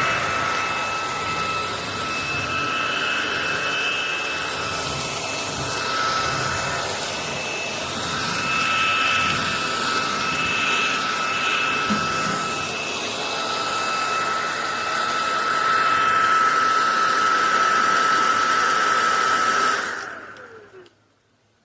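SunSare X11 cordless stick vacuum running, a steady motor whine over rushing air. It is switched off near the end and winds down with a falling pitch.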